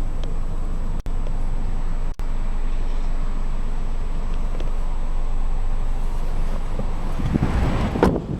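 Steady low rumble of the 2013 Jeep Compass Altitude's 2.4-litre inline-four idling. Near the end come a few knocks and rustles, the loudest just before the end.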